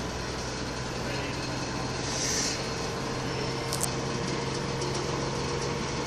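LG direct-drive washing machine on a spin cycle near its top speed of 1400 rpm: a steady motor hum and whine from the spinning drum.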